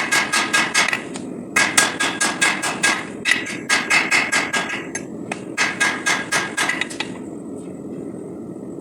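Hand hammer beating hot 5160 steel on an anvil in quick runs of ringing blows, about six or seven a second, with brief pauses between runs; the hammering stops about seven seconds in, leaving a steady low rushing noise.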